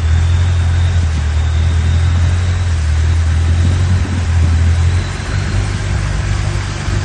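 Tour boat's engine running steadily, a low drone with a wash of noise over it, easing slightly about five seconds in.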